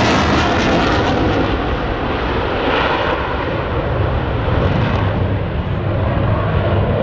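Boeing F/A-18 Super Hornet's twin General Electric F414 jet engines, loud, as the fighter pulls away after a slow high-pitch-rate pass. The high hiss fades after about the first second and a half, leaving a steady deep rumble.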